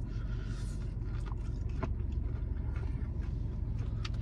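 A person chewing a chicken wing, with scattered small wet mouth clicks and smacks, over a steady low hum inside a car.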